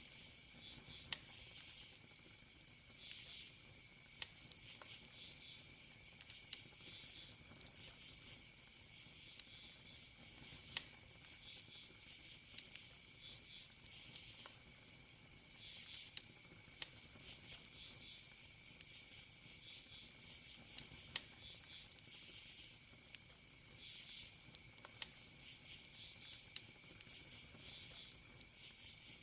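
Wood campfire crackling softly, with sharp pops every second or so, over crickets: a steady high trill and pulsing chirps every few seconds.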